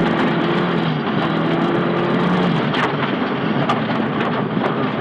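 Nissan Silvia S15 rally car's engine running hard at speed, its note dipping briefly about a second in and again around two and a half seconds, over steady road noise with a few sharp knocks.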